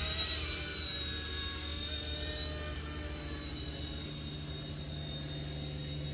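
Small electric RC-ERA C184 scale MD500 radio-controlled helicopter in flight: a steady high motor and rotor whine whose pitch drifts slightly as the throttle changes.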